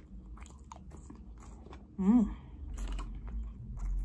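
Close-up chewing and lip-smacking of a mouthful of rice and butter chicken, with soft wet clicks throughout. About two seconds in comes a brief hummed "mm" of the voice, the loudest sound.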